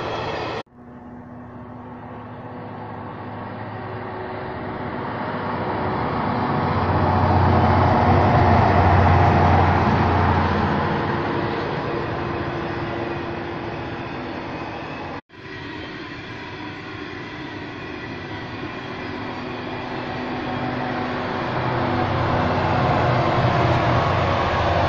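Coal train of hopper wagons rolling past, a steady noise of wheels on the rails with a low drone that swells twice, the second time as the locomotives come by near the end. The sound cuts out sharply for a moment about half a second in and again about fifteen seconds in.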